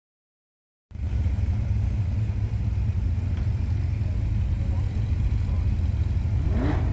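Car engine idling with a steady low rumble, cutting in abruptly about a second in.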